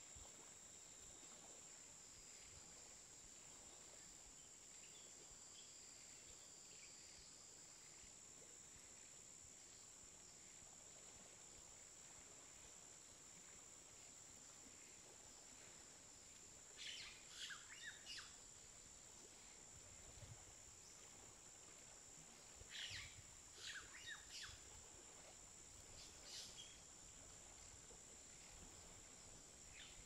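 Faint outdoor ambience: a bird calling in short clusters of chirps, four times from about halfway on, over a steady high-pitched tone.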